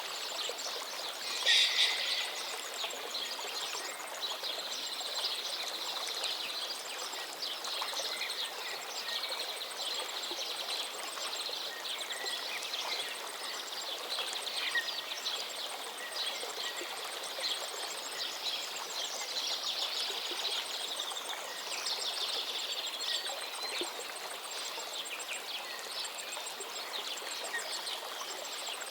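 Birds singing and chirping over the steady rush of a running stream, with a loud burst of song about a second and a half in.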